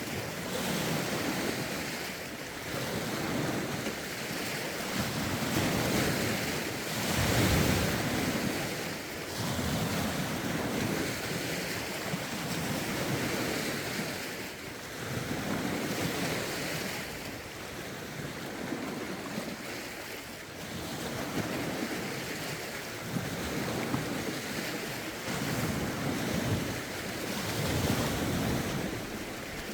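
Lake waves lapping and breaking on the shore in a steady rhythm, a swell every two to three seconds, with wind gusting across the microphone.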